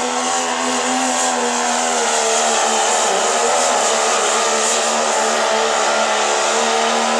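Turbocharged diesel pickup truck engine running flat out under load as it pulls the sled. It holds a steady high pitch, wavering briefly about halfway through.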